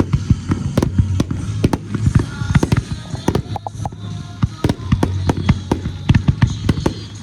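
Aerial fireworks bursting in quick succession, many sharp bangs and crackles a few per second, with music playing underneath.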